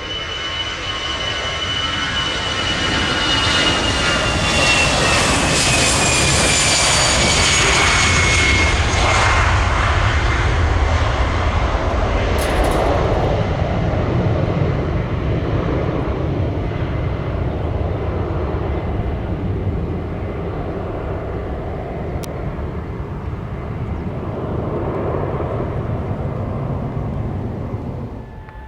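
Jet airliner taking off and passing by. The high engine whine falls in pitch as the aircraft goes past, and a deep rumble follows that slowly fades.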